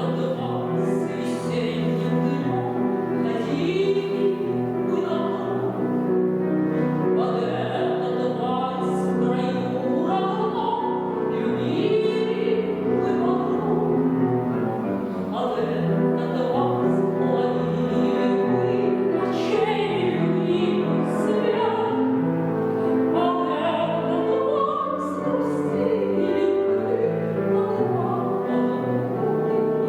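A woman singing a song in a classical, operatic style, accompanied on a grand piano.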